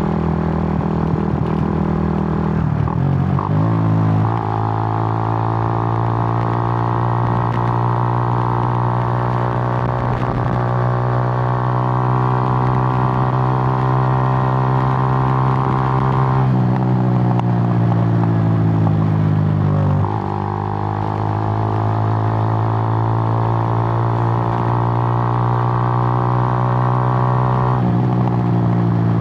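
Suzuki GN125's single-cylinder four-stroke engine running under way at a steady cruise. The engine note shifts about three seconds in, changes pitch again for a few seconds past the middle, and shifts once more near the end, as with gear changes and throttle changes.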